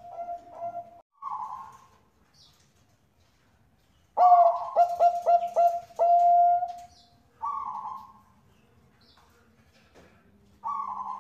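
Zebra dove (Bangkok perkutut) cooing. About four seconds in it gives a loud song phrase of quick stuttering coos that ends in a held note, with short single coos before and after.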